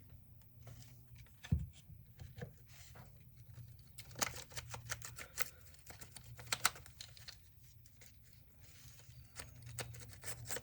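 Light clicks, taps and rattles of a DeWalt DCD780 cordless drill's housing and internal parts being handled during disassembly, with a dull knock about a second and a half in.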